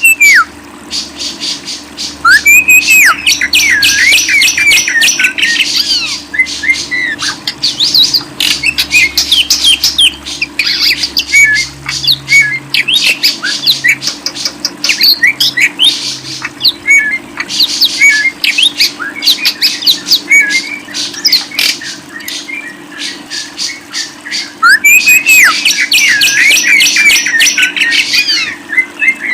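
Caged birds chattering and squawking in rapid, dense runs of harsh notes and short whistled glides, with the busiest stretches near the start and near the end. A faint steady hum runs underneath.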